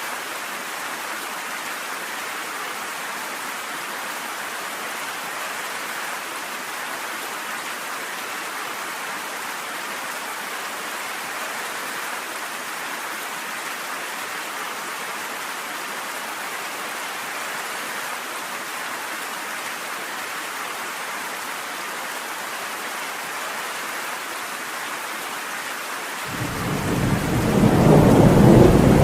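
Steady heavy rain hissing, with a loud low rumble of thunder building up about 26 seconds in and carrying on to the end.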